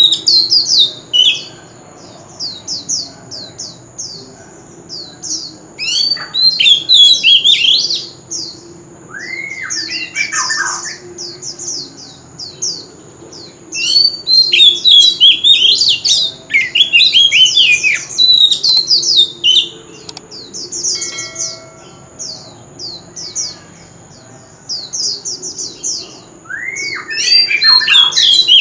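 Oriental magpie-robin singing loudly in bursts of rapid, varied whistled and rasping phrases, with short pauses between the bursts.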